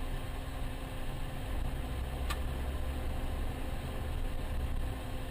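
Car on the move: steady engine and road rumble with a hiss, a little heavier in the middle, and a single sharp click about two seconds in.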